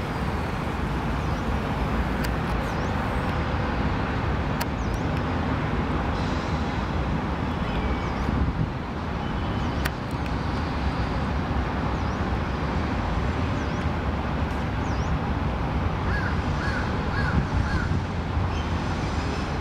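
Short bird calls scattered over a steady background rumble, with a quick run of four calls near the end.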